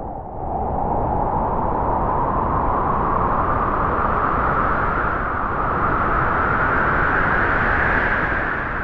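Wind gusting: a steady rushing with a whistling tone that rises slowly in pitch as the gust builds, easing off near the end.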